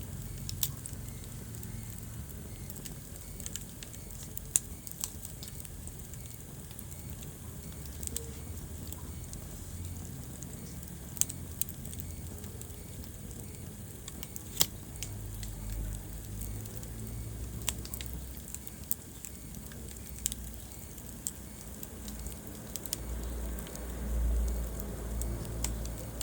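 Wood fire burning in a fireplace: irregular crackling with sharp pops over a steady low rumble of the flames, which swells near the end.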